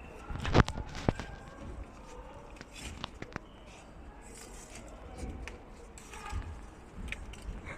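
Lumps of charcoal clicking and knocking against each other as they are moved and stacked by hand, with soft rustling between; the loudest knock comes about half a second in.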